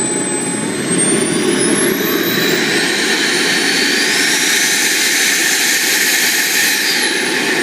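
RC jet model's turbine engine running with a loud rushing noise and a high whine. The whine climbs in pitch about a second in and again around four seconds, holds, then drops near the end as the engine spools down.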